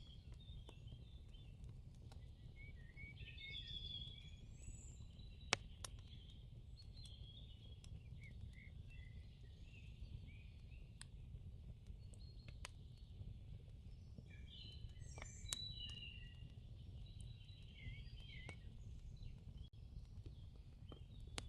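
Faint birds chirping over a low steady rumble, with a handful of sharp clicks scattered through, the loudest about five and a half seconds in.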